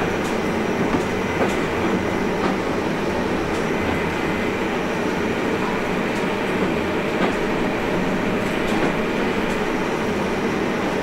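Train running, heard from inside the driver's cab: a steady rumble with a few clicks of the wheels passing over rail joints and points.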